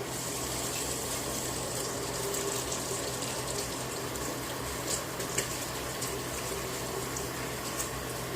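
Kitchen sink tap running, a steady rush of water as a utensil is rinsed under it, with a couple of light knocks about five seconds in.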